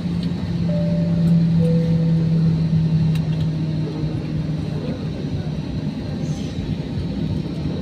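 Airbus A320 cabin noise during taxi-in: a steady low engine and airflow hum, whose strongest low tone drops away about five seconds in.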